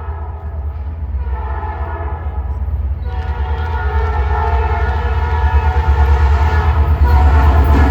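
Approaching diesel locomotive blowing its multi-tone horn, with a new, longer blast starting about three seconds in and held, over the deep rumble of the locomotive's engine, all growing louder as the train comes closer.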